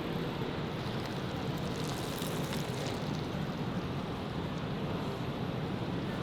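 Steady city street noise, mostly a low traffic rumble, with a brief rise in hiss about two seconds in.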